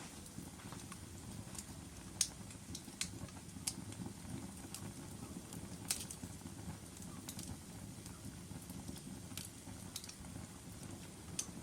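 Wood logs burning in a fireplace, crackling: scattered sharp pops and snaps over a steady low rustle of the fire, with the loudest pops about two and six seconds in.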